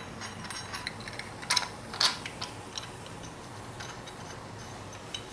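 Light metallic clicks and taps of a steel timing tool being fitted onto a BMW N20 engine, with two louder clicks about one and a half and two seconds in.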